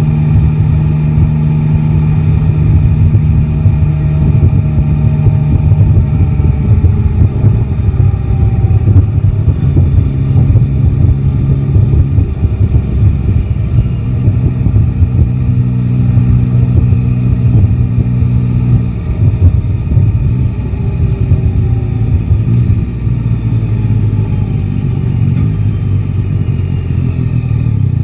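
Yamaha Tracer 9 GT's 890 cc three-cylinder engine running on the move. The engine note holds steady for stretches, then rises and falls as the bike speeds up and slows.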